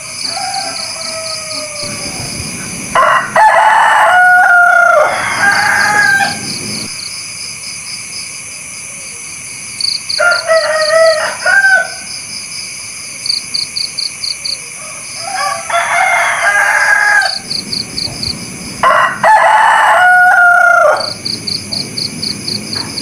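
A rooster crowing four times, each crow lasting about two to three seconds, with a steady high-pitched pulsing trill in the background.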